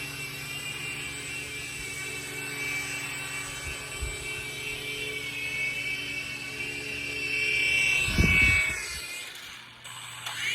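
Small electric rotor motors of a CZ02 toy helicopter drone whining steadily in flight, with a low hum beneath. A little after eight seconds in the whine rises and there is a thump, the motors drop off briefly, then spin up again with a rising whine near the end.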